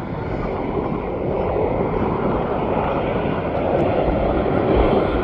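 Jet airliner engines, a steady rushing noise that grows gradually louder.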